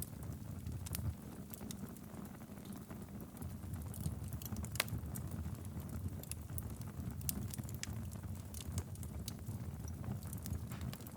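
Wood fire burning steadily in a fireplace, with a low rumble of flame and irregular sharp crackles and pops from the logs.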